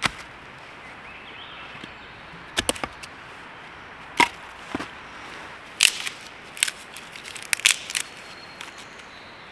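Dry wood cracking and knocking in short, sharp snaps, about ten of them in irregular clusters, as kindling is broken and readied to start a campfire.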